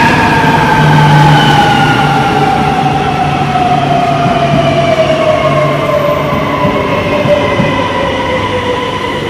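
Øresundståg electric train pulling into an underground platform. Its motors give a whine that falls steadily in pitch as it brakes, over the rumble of its wheels. It is loudest about a second in and eases off as the train slows.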